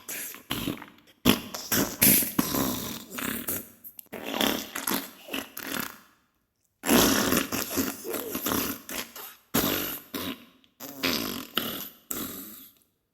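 Diarrhea sound effect: a series of fart bursts of varying length, one after another, with a brief silent gap about six seconds in.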